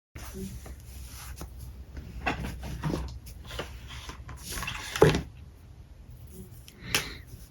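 Clicks and knocks of alcohol markers being handled on a drawing desk, picked up and set down with their caps, with rustling in between. A sharp knock about five seconds in is the loudest, and another comes near the end.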